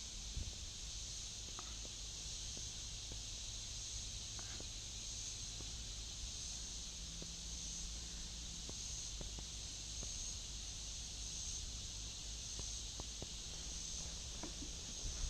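A steady, high-pitched chorus of insects singing, with a low rumble underneath and a few faint light ticks scattered through it.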